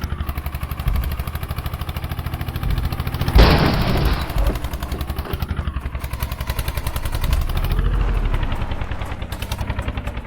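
Eicher 241 tractor's single-cylinder diesel engine running, with an even beat of about ten exhaust pulses a second. A loud rushing burst comes about three and a half seconds in.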